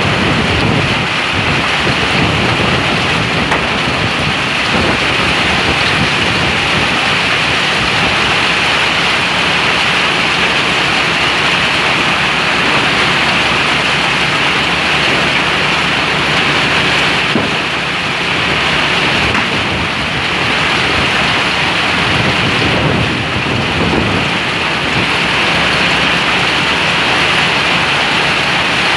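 Hailstorm: heavy hail and rain falling steadily and loudly.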